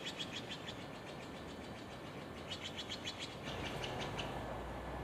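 Small birds chirping in short rapid trills, several bursts in a row, over steady outdoor hiss. A low rumble grows from about halfway through.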